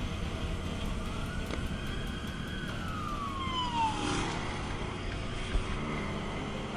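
A police siren wails once, rising slowly and then falling, over the steady rumble of a vehicle on the road.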